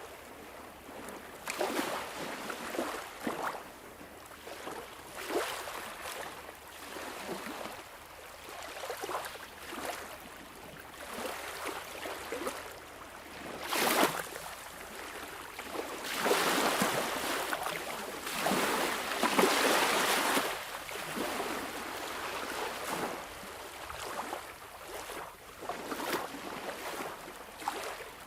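Sea waves washing and splashing in irregular surges, with a longer, louder wash of water about halfway through.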